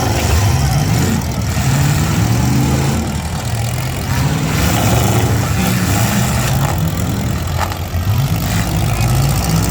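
V8 engines of demolition derby cars revving up and down repeatedly, with a few sharp knocks.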